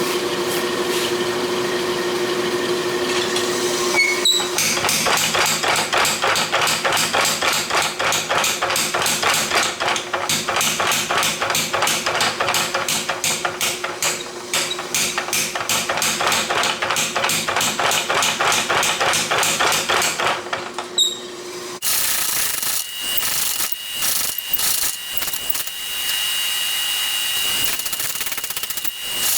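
Rapid, even hammer blows on steel, about five a second, over a steady hum, drawing out a small sword blade. The blows stop about three quarters of the way through, and a steady high whine with scattered knocks follows.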